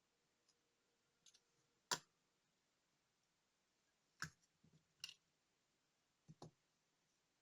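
Small, sharp clicks and taps of hand tools and tiny watch parts set down and handled on a work surface during watch disassembly: about six separate clicks, the sharpest about two seconds in, with a quick pair near the end.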